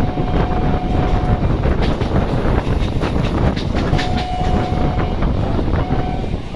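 Train running by with a loud, steady rumble and wheel clatter on the rails. A steady single tone sounds three times, the last one short.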